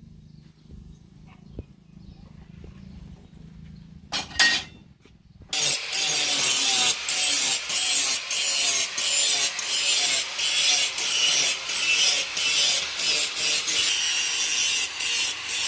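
Knife blade being sharpened: after a few quiet seconds with a low hum, a loud, hissy scraping starts about five seconds in and goes on in repeated strokes, roughly one every half second or so.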